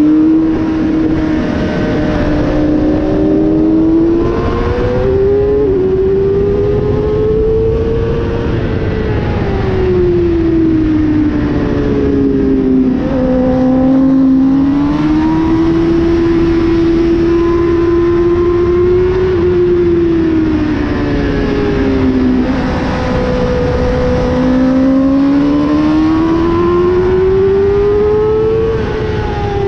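Motorcycle engine under an onboard camera at track speed, its pitch rising and falling in long swells as the rider accelerates along the straights and eases off for corners. Heavy wind rush runs underneath.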